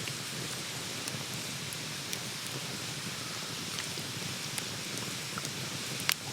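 Campfire crackling: a steady hiss with scattered small ticks, and one sharp pop near the end.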